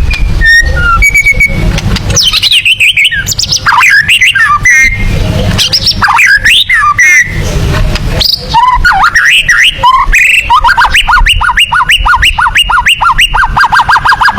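White-rumped shama singing a varied string of loud whistled notes that sweep up and down. About ten seconds in, the song turns into a fast run of quickly repeated short rising notes. A steady low rumble sits under the song.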